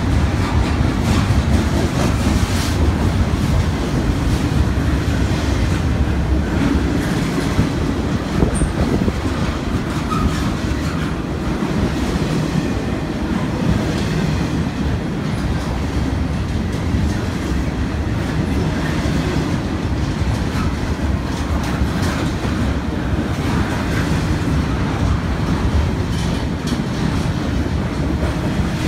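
Double-stack intermodal freight train's well cars rolling past close by. There is a steady rumble of steel wheels on rail, with clickety-clack over the rail joints.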